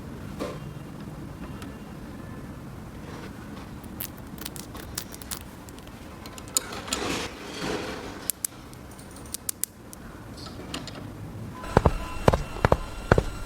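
Small plastic toy pieces being handled: scattered clicks and a brief rustle, then a quick run of sharp plastic taps and clicks near the end.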